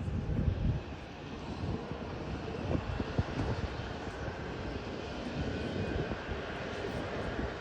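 Jet airliner's engines running: a steady rumble with a faint high whine on top.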